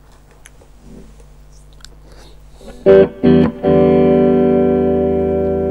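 Electric guitar through a Mesa Boogie Recto-Verb 25 tube combo amp, likely on its clean channel: a low amp hum with a few small string and handling clicks, then two short strummed chords about three seconds in, and a full chord left ringing and slowly fading.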